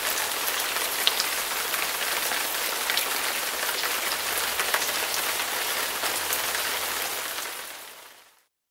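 Rain on a surface: a steady, dense pattering hiss that fades out near the end.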